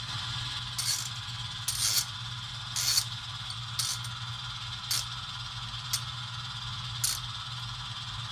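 Model railroad sound at a standstill: a steady low hum with a short hissing tick about once a second, seven in all.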